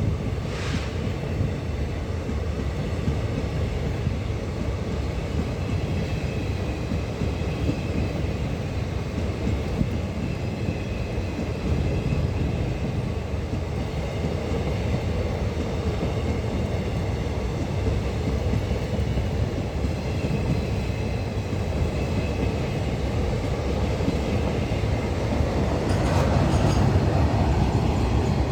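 Goods train rolling past on Indian Railways: a steady rumble of wagon wheels on the track, growing slightly louder near the end.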